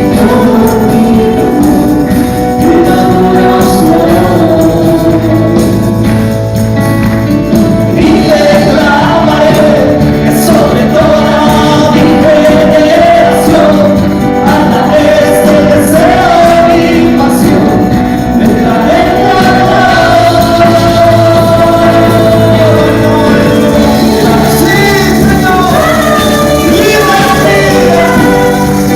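Christian worship music: a praise song with voices singing a wavering melody over a steady band accompaniment.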